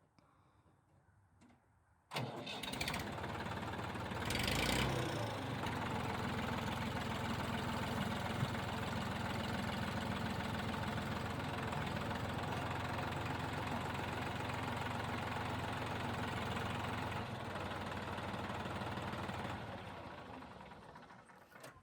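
Massey Ferguson tractor engine coming on abruptly about two seconds in and running steadily while its hydraulics lift a strapped load of logs on the forks, briefly louder a couple of seconds after it starts, then fading out near the end.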